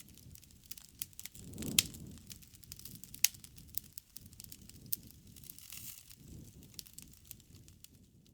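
Wood campfire crackling: irregular sharp pops and snaps over a low rumble of burning flames, with the two loudest snaps about two and three seconds in.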